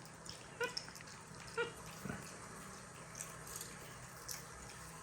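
Pet monkey giving two short, squeaky pitched calls about a second apart, with faint scattered clicks as the monkeys handle and eat popcorn.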